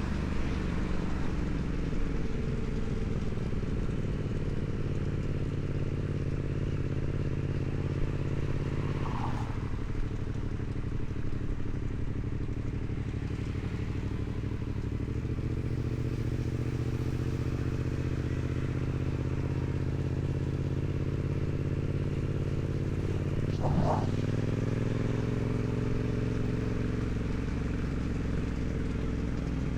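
2016 Yamaha MT-07 parallel-twin engine through its stock exhaust, running at steady riding revs. The engine note shifts twice, about nine seconds in and again near 24 seconds, with a short louder burst at the second change.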